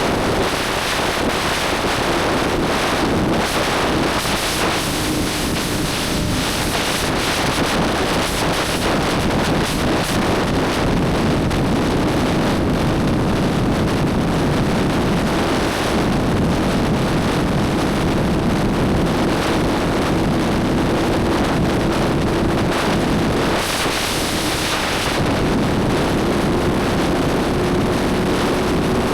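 Motorcycle engine at a steady cruise with heavy wind rushing over the microphone. The engine note eases off briefly twice, then climbs slowly near the end.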